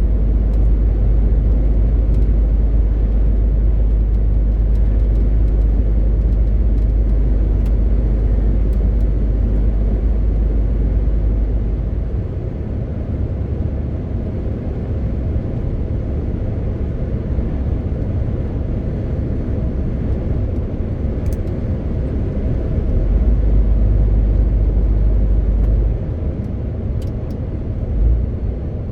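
MAN TGX 18.520 truck's straight-six diesel engine running under way, with road noise: a steady deep rumble that eases about twelve seconds in and swells again for a few seconds later on.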